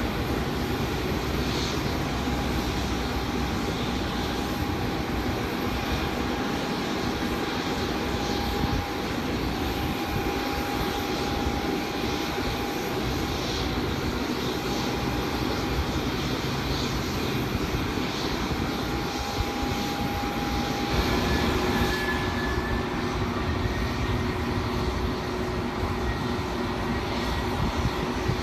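Jet airliner engines running with a steady whine over a low rumble; a second, higher whine joins about two-thirds of the way through. Wind buffets the microphone.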